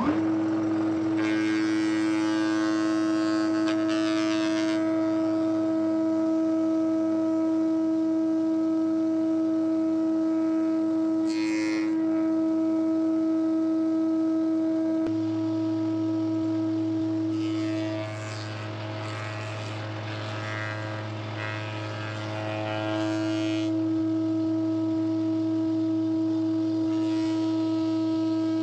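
An electric power tool's motor starts and runs with a steady hum. It is joined by several stretches of rough, hissing cutting noise, and the hum sinks a little in level about two-thirds of the way through.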